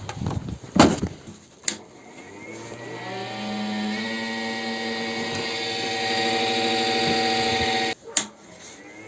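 A battery charger, switched on with a couple of clicks, hums steadily at one even pitch for about six seconds, then cuts off abruptly with another click.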